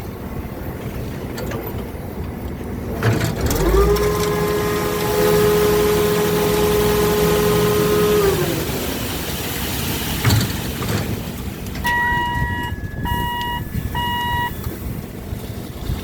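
Heavy road-construction machinery running with a low engine rumble. A pitched mechanical whine rises, holds for about five seconds, then winds down. Near the end a reversing alarm beeps three times.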